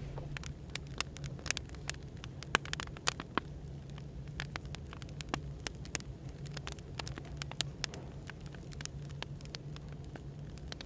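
Burning firewood crackling with frequent sharp, irregular pops over a steady low hum of café background noise.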